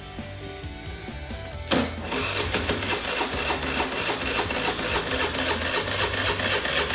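A Suzuki Address V50 scooter's electric starter cranks its fuel-injected 50cc engine after a click about two seconds in. The engine turns over with a fast, even whirr for about five seconds without catching.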